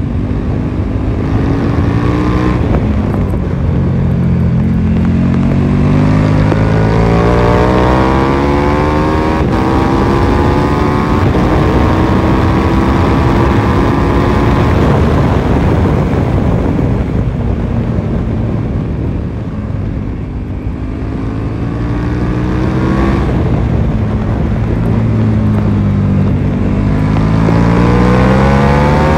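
KTM 1290 Super Duke R's V-twin engine at full throttle on track, revs climbing and breaking at each upshift. About halfway through the engine note falls away as the bike slows for a corner, then climbs through the gears again.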